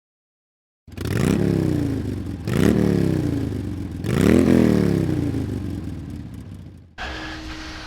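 An engine revved three times in quick succession, each rev rising sharply in pitch and then dying away slowly. About seven seconds in, this cuts to a quieter, steady running sound with a constant hum.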